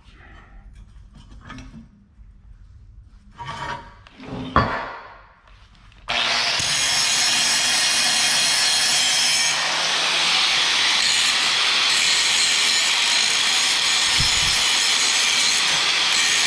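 A few knocks of metal parts being handled, then a power grinder starts suddenly about six seconds in and grinds steadily on steel, taking it down to bare metal for welding.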